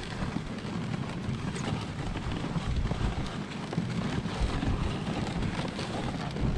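Steady running noise of a moving dog sled on the trail, with wind buffeting the microphone.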